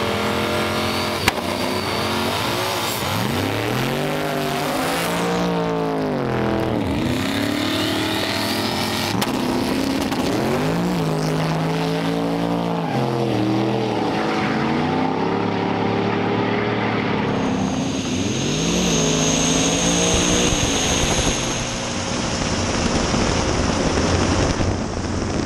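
Drag racing engines running loud and revving, their pitch climbing and dropping again several times over a no-prep drag race pass.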